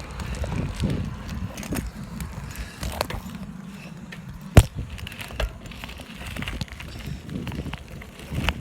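Bicycle riding heard through a hand-held phone's microphone: low wind rumble and rolling, rattling noise with scattered clicks, and one sharp knock a little past halfway.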